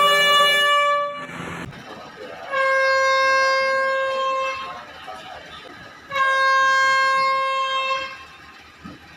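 Thai train horn sounding steady blasts: a long one cutting off about a second in, then two more of about two seconds each, with short gaps between.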